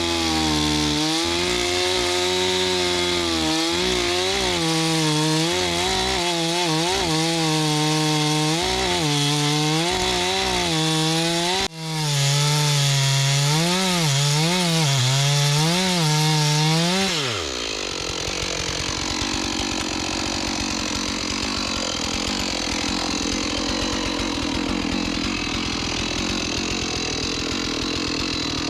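Gas chainsaw at full throttle cutting wood, its pitch sagging and recovering over and over as the chain bogs under load. It briefly lets off about twelve seconds in. About two-thirds through, the revs fall away and a lower, steady sound remains.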